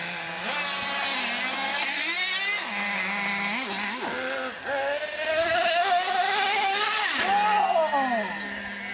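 Radio-controlled trucks' small nitro engines buzzing, revving up and down again and again over a steady idling tone, with one long rising whine about halfway through.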